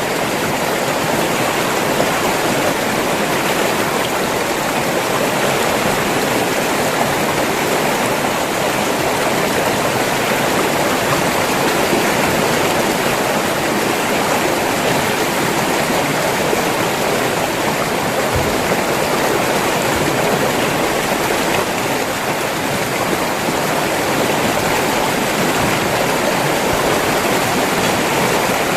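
River water rushing and flowing steadily over rocks, a constant even rush.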